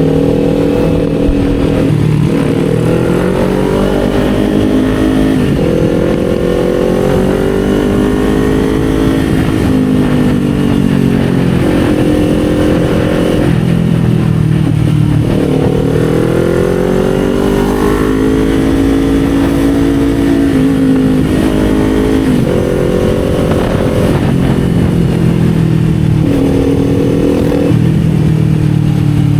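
Kawasaki Z400's parallel-twin engine running under riding load, its pitch climbing and dropping repeatedly as the rider works the throttle and gears. Several climbs break off with a sudden drop in pitch, and a few slower falls come as the throttle is rolled off, over a steady low rush of wind and road.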